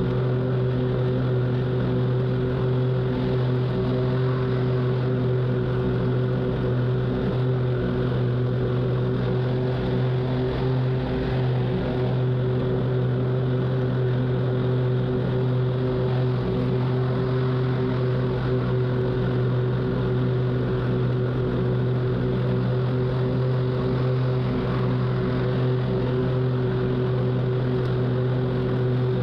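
Zero-turn lawn mower engine running steadily at a constant pitch while mowing.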